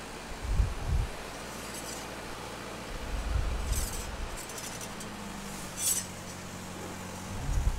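A few light metallic clinks and rattles, with low gusts of wind on the microphone. A steady low engine hum comes in about halfway through.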